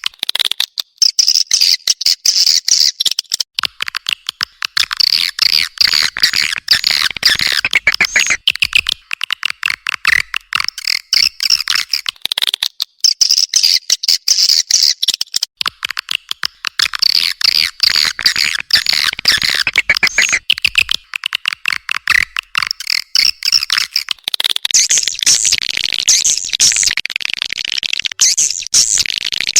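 Recorded swiftlet calls (walet, edible-nest swiftlets): dense, rapid twittering chirps and clicks, played as a call track to lure swiftlets into a swiftlet house. About 24 seconds in, the mix changes to a shriller, fuller chatter.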